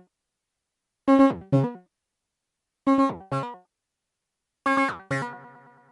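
Synthesizer playing short chord stabs in pairs, the two stabs of each pair about half a second apart, with a gap of silence before the next pair. Three pairs sound; the last chord rings on and fades slowly.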